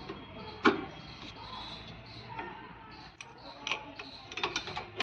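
Irregular metallic clicks and taps of a wrench working on the bolts of a new rear wheel hub while they are being tightened. There is one sharp knock just under a second in and a quick run of clicks near the end.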